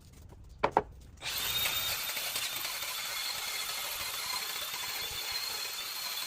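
Two sharp clicks, then a power tool starts about a second in and runs steadily, a hiss with a steady high tone on top.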